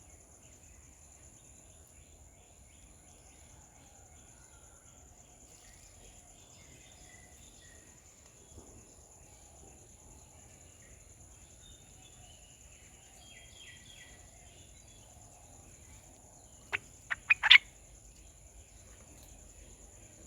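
Garden ambience: a steady high insect drone with faint bird calls, then near the end a quick run of four sharp, loud chirps.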